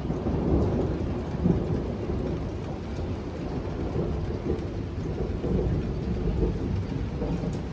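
Thunder rolling and slowly dying away in a long low rumble over steady heavy rain.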